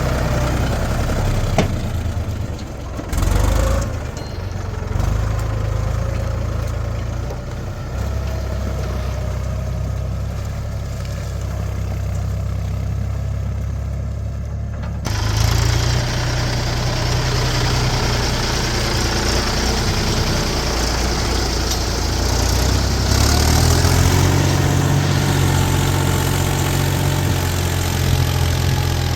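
Diesel engines of heavy machinery running steadily. The sound changes abruptly about halfway through, and the engine revs up louder near the end.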